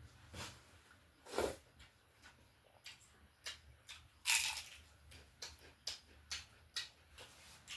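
Close-up eating sounds of someone eating chicken: irregular chewing clicks and smacks, with a louder burst about four seconds in.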